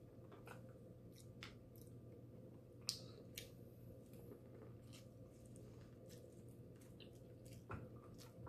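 Faint chewing of food with scattered small mouth clicks, one sharper click about three seconds in.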